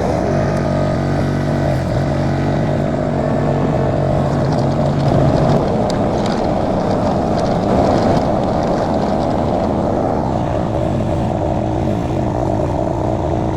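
Mini skid steer's engine running steadily, its pitch shifting about five to six seconds in.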